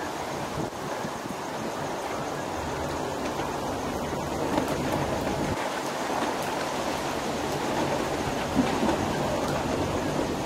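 Steady rush of hurricane wind and heavy rain, with gusts buffeting the microphone.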